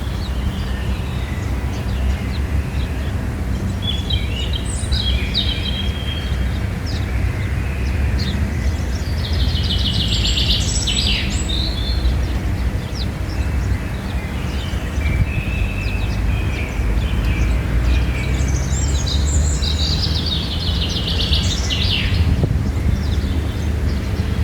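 Birds calling and chirping, with bursts of rapid trilled notes at the start, about ten seconds in and again near twenty seconds, over a steady low rumble.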